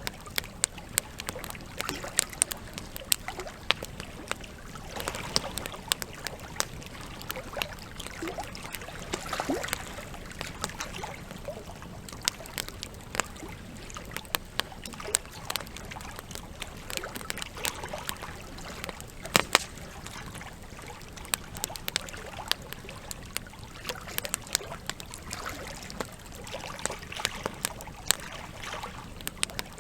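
Wood campfire crackling, with frequent sharp pops and snaps, the loudest about two-thirds of the way through, over a steady trickle of running water.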